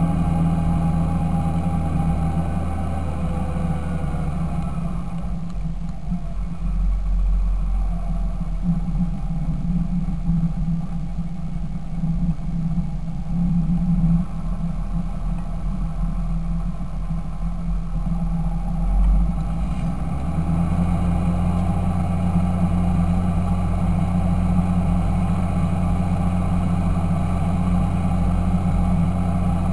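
Fendt Favorit 926 tractor's diesel engine running steadily. From about five seconds in its higher tones fade and a deeper rumble takes over, and about twenty seconds in the earlier sound returns.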